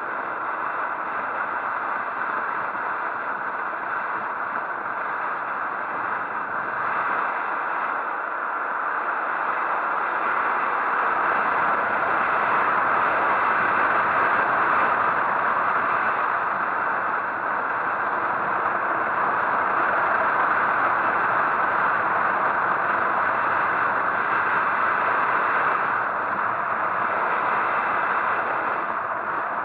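Steady rushing noise of a motorcycle on the move, without a clear engine note, growing somewhat louder about ten seconds in.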